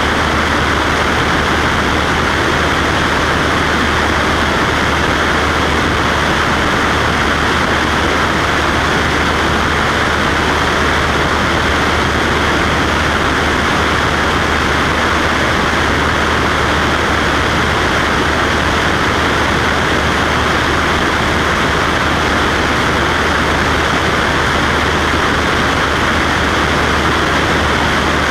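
Cessna Skywagon's single piston engine and propeller running steadily in flight, an unchanging drone with wind noise.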